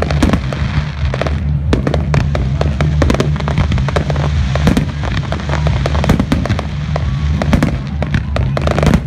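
Aerial fireworks shells bursting in a rapid barrage, a dense run of sharp bangs and crackles, with music playing underneath.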